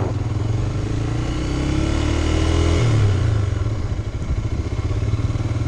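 Motorcycle engine under way. Its pitch rises steadily for about two seconds as it accelerates, then drops just before three seconds in.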